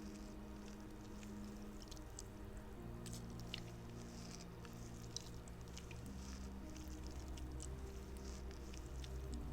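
Small, scattered squelchy crackles of a squishy spider fidget toy being squeezed, over quiet background music of long held chords that change every few seconds.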